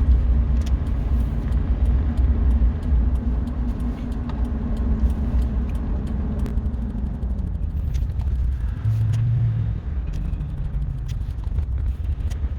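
Truck driving: a continuous low engine and road rumble. A steady hum in it drops away about seven seconds in, and a short louder hum follows around nine seconds.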